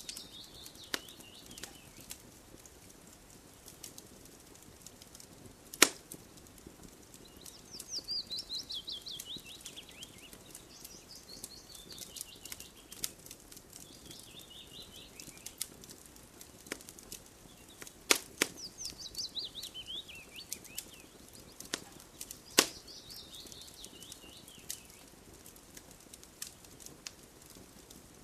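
Wood fire crackling with scattered ticks and three sharp, loud pops. Over it, a songbird sings several times, each phrase a fast series of high notes falling in pitch over about two seconds.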